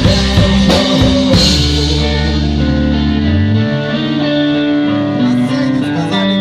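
Rock band playing, with electric guitar and drum kit. The drum hits stop about a second and a half in, leaving held guitar chords ringing.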